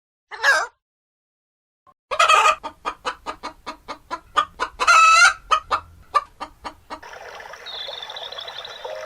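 A chicken clucking in a quick run of short clucks, about four a second, broken twice by a louder, drawn-out squawk, as in a hen's cackle. Near the end the clucking gives way to a steady rush like running water.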